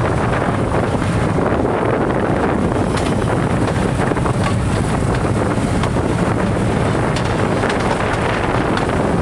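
Narrow gauge train running along the track: a steady noise of wheels and carriage, with wind buffeting the microphone.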